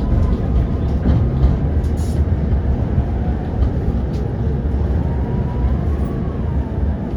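Tram running along its rails, heard from inside the car: a steady low rumble, with light clicks and a faint thin tone that rises and falls about five to six seconds in.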